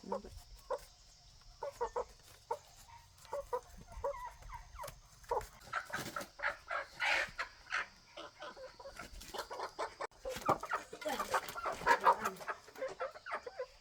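Chickens clucking and squawking, louder and busier about six seconds in and again from about ten seconds, as the birds are handled for weighing.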